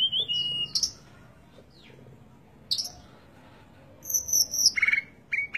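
A bird chirping and whistling in short high bursts: a few calls at the start, one about halfway through, and a longer run of calls near the end.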